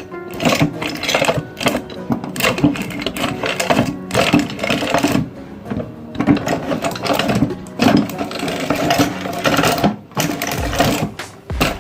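Electric meat grinder running, its motor humming steadily under dense, irregular crunching and crackling as material is forced through it, with brief lulls about halfway and near the end.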